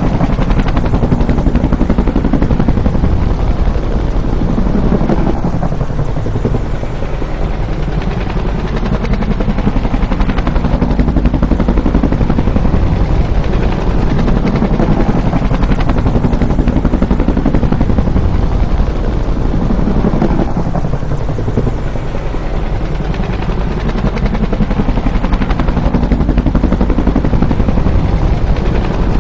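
Bell UH-1 "Huey" helicopter's two-bladed main rotor beating in a fast, steady chop. The sound eases and swells back twice, about fourteen seconds apart, as the helicopter passes.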